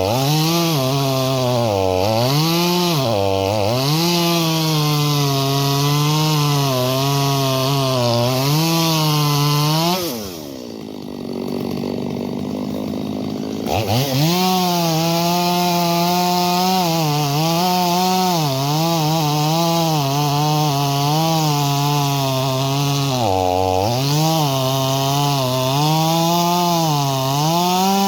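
Stihl MS250 two-stroke chainsaw cutting wood at high revs, its pitch wavering up and down as the chain loads and frees. About ten seconds in it drops back to idle for a few seconds, then revs up and cuts again, with one more brief dip near the end.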